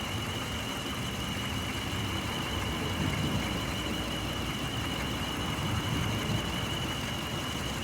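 2005 Hyundai Matrix engine idling steadily, with a steady high-pitched tone alongside. The engine has a misfire on cylinder 2 (code P0302).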